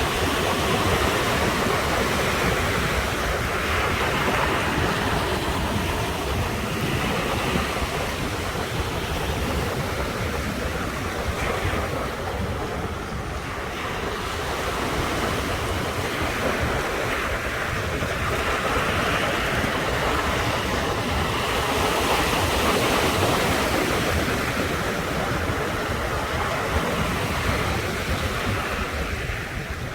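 Ocean surf breaking and washing onto the shore in a continuous rush, swelling and easing every few seconds, with a brief lull about halfway through.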